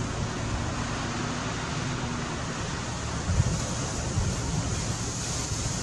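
Steady rushing water with wind on the microphone, a few low buffeting thumps from gusts, the strongest a little past halfway.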